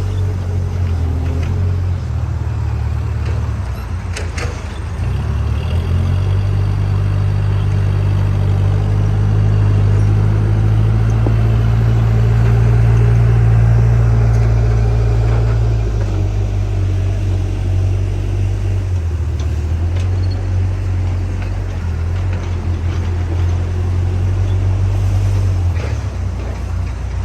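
Diesel engine of a JCB backhoe loader running with a low, steady drone. It grows louder for about ten seconds in the middle, as if working under load, then eases back.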